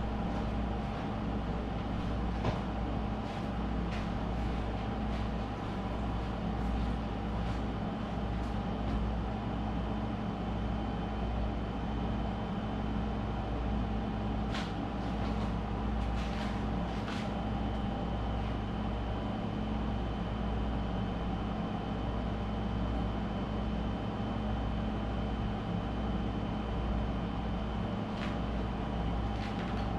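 A steady low mechanical hum with faint thin higher tones, broken now and then by short faint clicks.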